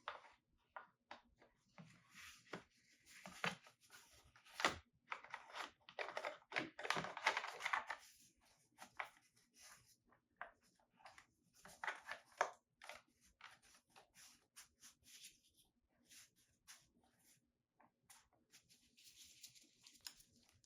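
Faint scattered clicks, scrapes and rustles of hands handling something, busiest in the middle, with no engine running.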